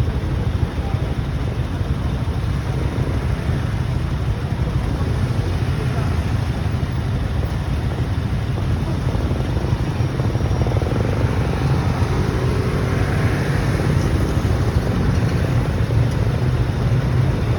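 Steady low rumble of wind buffeting the microphone with a motorcycle's engine and road noise underneath while riding at speed.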